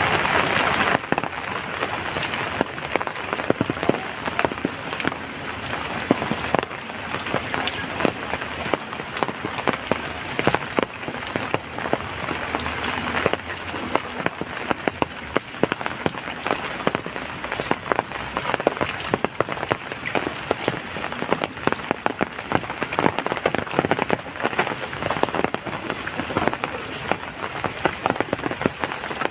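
Steady rain falling, with many close drops striking a surface in quick, uneven taps. A heavier hiss in the first second eases off and the rain then holds steady.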